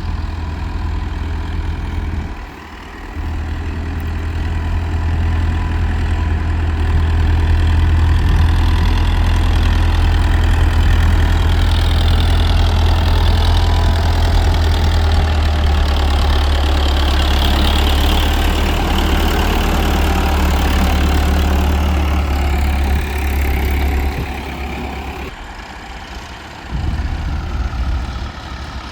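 Tractor's diesel engine working hard under load, a deep steady drone. It builds over the first several seconds, holds loud, then eases off near the end.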